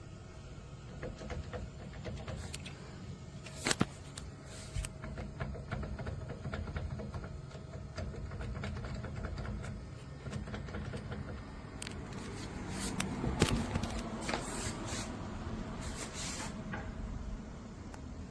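Steady low rumble with scattered clicks and knocks: a few sharp ones in the first five seconds and a busier cluster in the second half.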